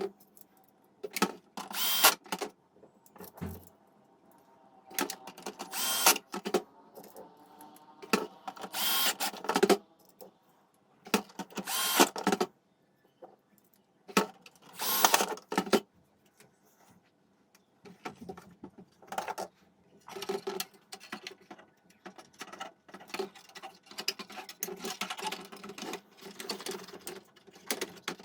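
Small electric power tool, an electric screwdriver or drill, run in short bursts of about a second each, five times in the first half. Quieter mechanical handling and tool noise follows in the second half.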